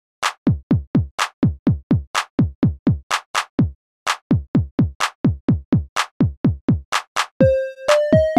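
Self-made electronic music: a fast drum-machine beat of deep kicks that drop in pitch, alternating with crisp, hissy snare or hi-hat hits. The beat stops briefly about halfway through. Near the end a buzzy synth melody enters in stepped notes over the beat.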